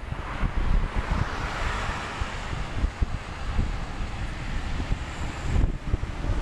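Wind buffeting the microphone at riding speed on a road bike, with a steady rush of road and tyre noise that swells between about one and three seconds in.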